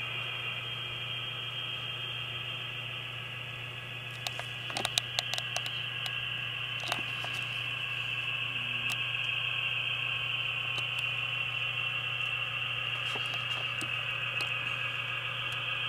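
QSI sound decoder in an Atlas SD35 model diesel locomotive playing its diesel engine sound through a small speaker, a steady drone with a low hum under it. A few sharp clicks come about four to seven seconds in, and the sound grows a little louder after that.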